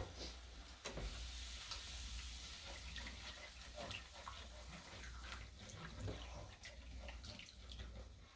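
Milk being poured into a pan of roux, a faint liquid pouring sound, with a few light clicks of a utensil against the pan.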